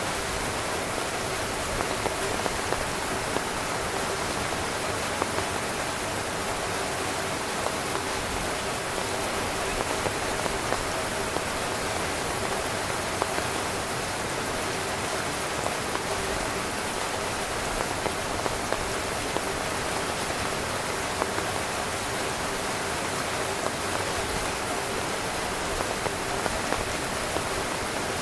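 Heavy rain drumming steadily on a tent fly, a dense hiss with frequent louder individual drop hits scattered throughout.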